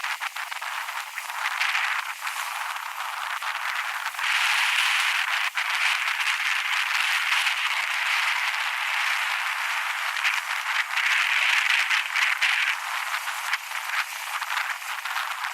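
Wind rushing over the microphone while riding, with scattered sharp clicks. It grows louder about four seconds in and eases off near the end.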